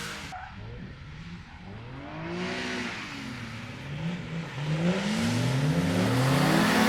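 Drift car engine revved up and down repeatedly, starting faint and growing louder as the car comes closer. The earlier sound cuts off sharply about a third of a second in.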